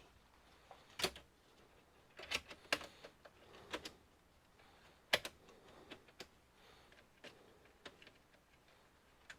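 Scattered sharp clicks and light taps, about a dozen at irregular intervals, from small parts of an all-in-one computer being handled and worked on during disassembly.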